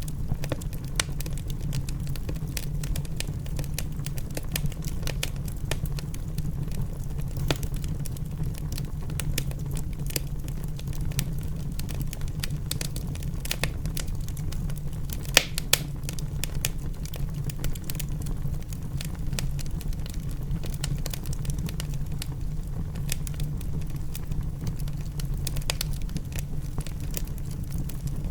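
Wood fire in a fireplace crackling: irregular sharp pops and snaps over a steady low rumble, with one louder pop about fifteen seconds in.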